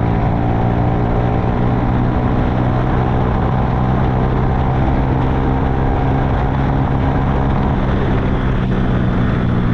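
Honda CG Fan motorcycle's single-cylinder four-stroke engine running at a steady speed, its carburettor needle just raised one notch to cure bogging at high revs.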